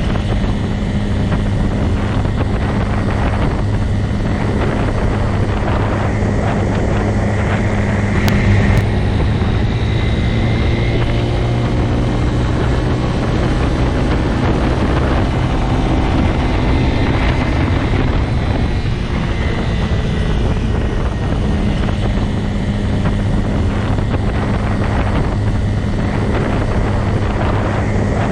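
Motorcycle engine running steadily, with a deep even drone and small rises and falls in pitch through the middle.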